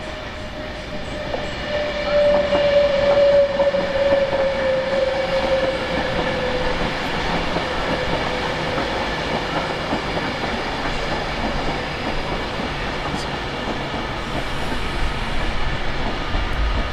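A train moving along the track: a steady running noise with light wheel clicks, and a whine that slides down in pitch between about two and six seconds in.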